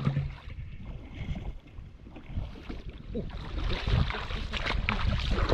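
Water sloshing and splashing, with scattered knocks and handling noise over a low rumble.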